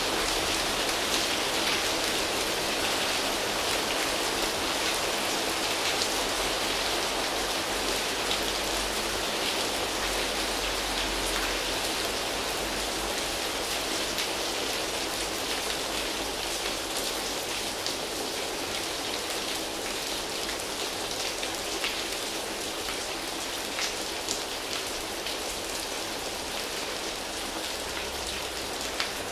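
Steady rain falling on foliage, with many separate drops ticking on the leaves, easing slightly toward the end.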